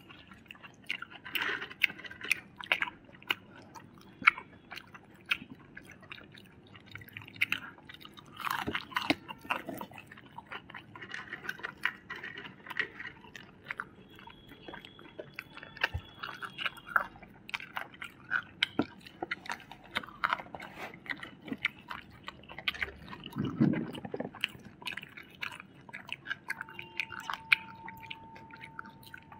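Close-up chewing and biting of fried food, such as fried chicken and french fries: irregular crunches and wet mouth clicks.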